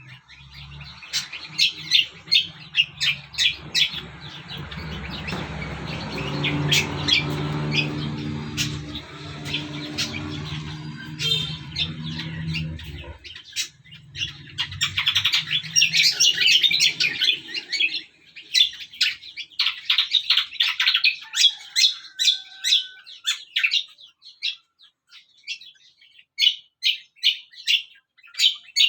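Small songbirds chirping and twittering in quick repeated notes. For the first half there is also a low mechanical hum underneath, like an engine, which builds and then stops abruptly about 13 seconds in.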